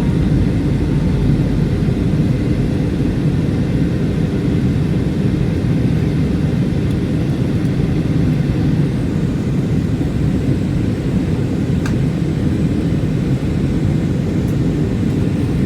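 Steady low drone of an Airbus A320neo's cabin in flight, with engine and airflow noise blended into an even rumble.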